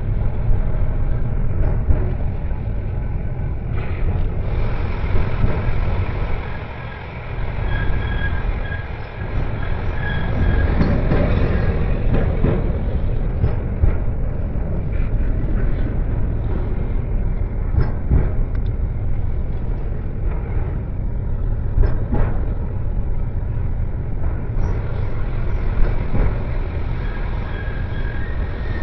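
Milan tram running on street rails: a steady low rumble with scattered knocks, and a faint high squeal from the wheels twice, about eight to eleven seconds in and again near the end.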